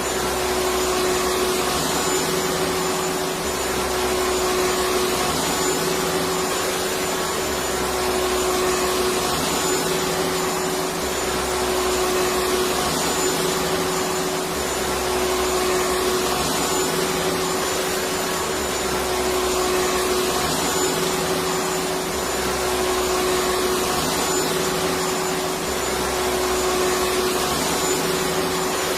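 Vacuum cleaner running continuously: a steady whooshing motor noise with a constant hum, and a faint low throb that swells and fades every couple of seconds.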